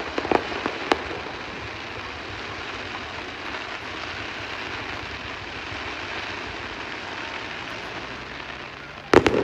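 Fireworks: a few sharp pops and crackles in the first second, then a steady rushing noise for several seconds, cut by one loud bang near the end.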